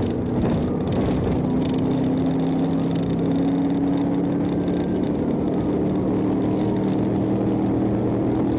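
Patrol car engine running at a steady cruising speed, with tyre and road noise; its pitch changes only slightly.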